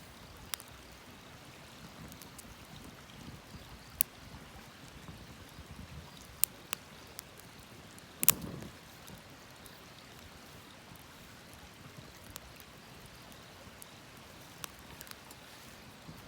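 Wood campfire crackling, with sharp, irregular pops over a steady low hiss; the loudest pop comes about eight seconds in.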